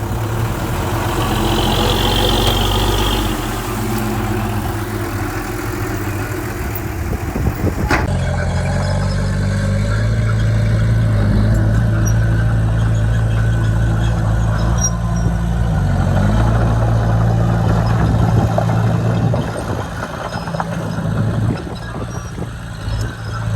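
Heavy diesel machinery engines running at a steady pitch, with a brief high-pitched tone about two seconds in. The sound cuts to another shot about eight seconds in, where a steady diesel engine runs on, its pitch dipping briefly around sixteen seconds.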